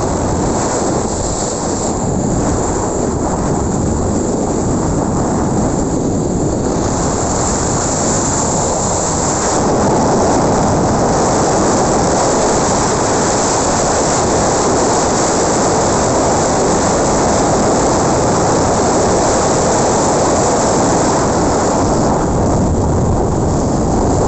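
Wind buffeting the microphone: a steady loud rush and rumble with no other distinct sound, growing stronger about ten seconds in.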